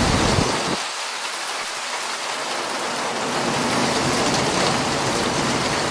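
Heavy rain pouring onto paving and puddles, a steady hiss.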